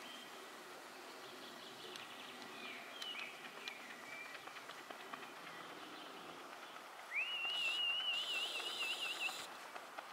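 Faint outdoor ambience with birds chirping. About seven seconds in, a bird sings a wavering, trilling high note for about two seconds, the loudest sound here.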